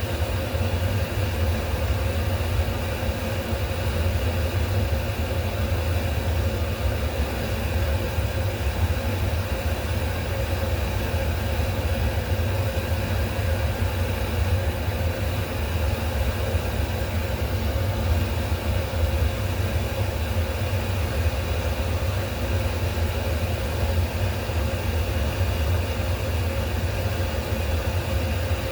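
A steady low machine hum, unchanging throughout, with a faint steady whine above it.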